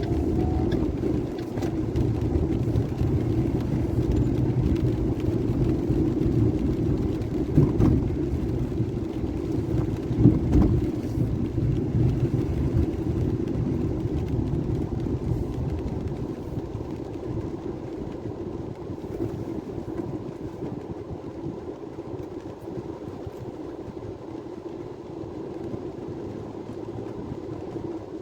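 Low, steady rumble of a vehicle on the move, heard from inside, with two louder knocks about eight and ten seconds in; the rumble fades gradually over the second half.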